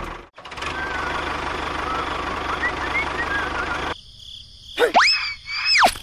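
Steady background hiss with faint chirps. It cuts out about four seconds in, and an added cartoon sound effect follows: a tone that sweeps up, holds for about a second and sweeps back down.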